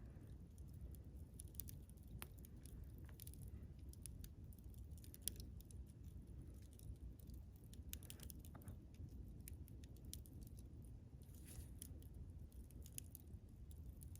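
Wood campfire crackling faintly: scattered small snaps and pops at irregular intervals over a low steady rumble.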